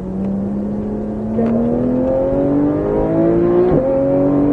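Porsche 991 GT3's flat-six engine accelerating hard, heard inside the cabin. Its pitch climbs steadily and it gets louder about a second and a half in. Near the end an upshift briefly cuts the note and drops the pitch before it starts climbing again.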